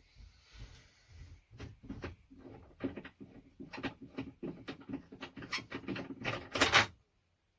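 Irregular metallic clicks, knocks and rattles from working the quick-release knobs on a sliding swivel seat base, with a brief scrape in the first second and the loudest clatter near the end.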